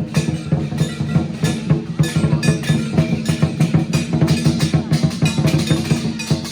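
Lion dance percussion: a drum beaten in a fast, busy rhythm with cymbals clashing.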